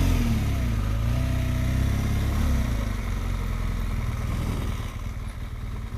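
Motorcycle engine pulling away at low speed, its pitch rising and falling a few times as it moves off, then running quieter near the end.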